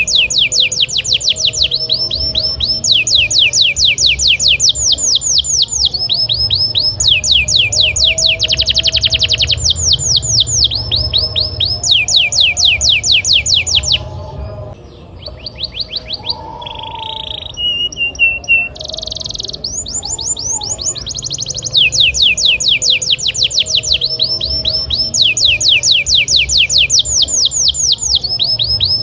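Domestic canary singing a fast, continuous song of rapid trills, one run of repeated notes after another, with a short stretch of sparser, varied notes about halfway through. A low steady hum runs underneath.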